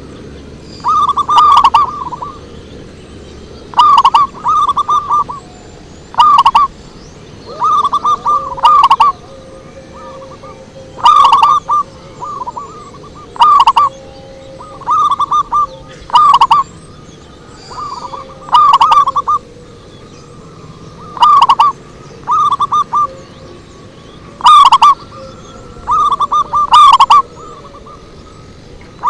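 Zebra dove (perkutut) cooing: loud short phrases of quick staccato coos, each about a second long, repeated about every two to three seconds.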